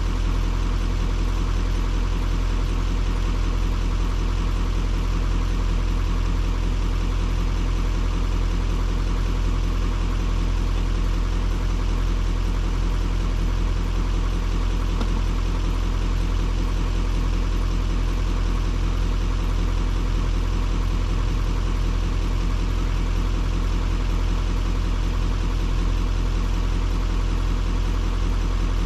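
Duramax diesel pickup engine idling steadily, a low even rumble that does not change.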